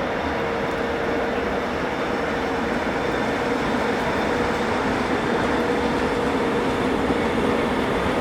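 A train running past on the tracks: a steady rush of wheels on rail with a held humming tone, growing slightly louder toward the end.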